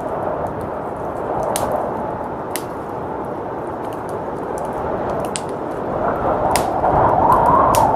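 Blizzard wind blowing steadily, swelling into a stronger gust about six seconds in, over a fireplace fire crackling with a few scattered sharp pops.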